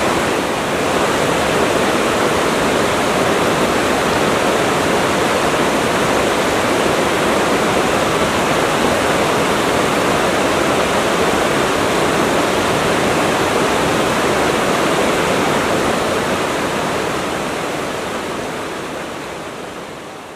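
Waterfall, water rushing steadily over the falls, fading out over the last few seconds.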